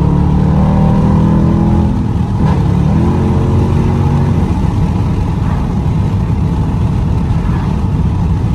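2017 Dodge Durango R/T's 5.7-litre Hemi V8, with an X-pipe and the rear muffler deleted, accelerating hard as heard from inside the cabin with a window cracked. The exhaust note rises, drops at a gear change about two seconds in, climbs again, then settles into a steady drone.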